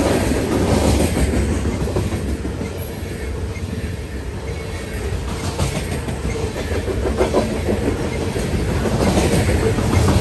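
Coal hopper cars of a freight train rolling past close by: a steady rumble of steel wheels on rail with irregular clickety-clack knocks over the rail joints. Near the end a low drone grows louder as the train's mid-train diesel locomotives draw close.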